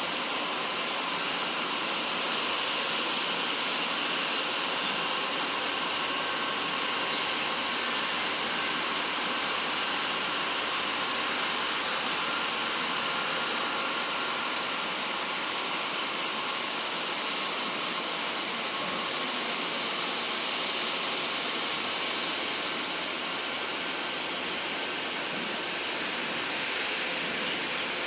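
Steady rushing road and wind noise of a moving truck, even throughout, with no clear engine note.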